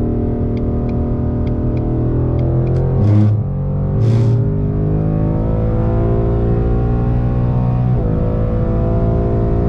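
2020 Ford Mustang GT's 5.0 L V8, with a Borla S-Type cat-back exhaust, accelerating hard through the gears: the engine note rises, drops at an upshift about three seconds in, rises again, and drops at a second upshift near the end.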